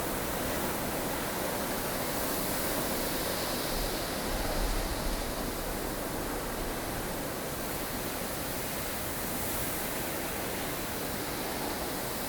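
Snowstorm wind blowing as a steady, even hiss, with gusts swelling and easing every few seconds and a brief low rumble about four to five seconds in.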